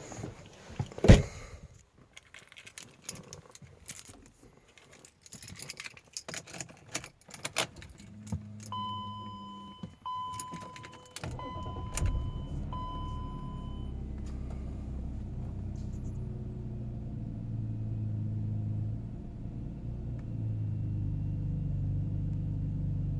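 A car door thuds shut, keys jangle and click into the ignition, and four evenly spaced beeps sound as the ignition comes on. The 1997 BMW 528i's 2.8-litre straight-six then cranks and catches on a cold start and settles into a steady idle, which rises a little near the end.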